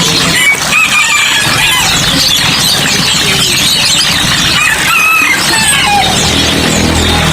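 Many caged songbirds chirping and singing at once, a dense chorus of overlapping short whistles and trills like a bird stall. A low steady hum runs underneath, stronger near the end.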